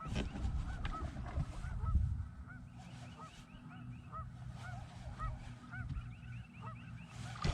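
A flock of geese honking repeatedly in the background, many short calls overlapping, over a low rumble of wind and handling noise that is heaviest in the first two seconds.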